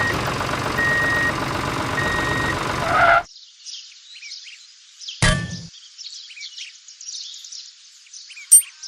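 A vehicle engine running with a reversing beeper sounding three times, about a second apart. It cuts off abruptly to birds chirping, with a single sharp knock midway.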